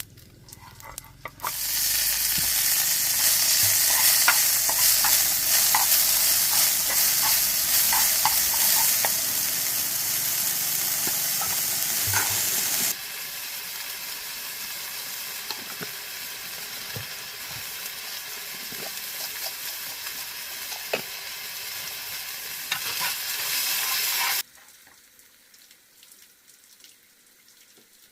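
Food sizzling as it fries in a pan, with scattered clicks of a utensil stirring it. The sizzle drops suddenly in level about halfway through and stops abruptly near the end.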